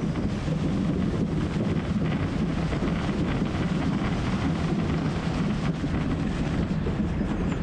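Tractor engine running steadily under load while working the potato field, with a constant low drone.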